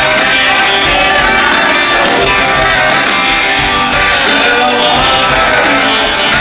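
Live band playing an instrumental passage, with guitar to the fore and the music loud and steady throughout.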